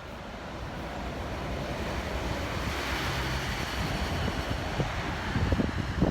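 A rushing noise that swells over the first few seconds and holds, with wind buffeting the microphone in gusts, strongest near the end.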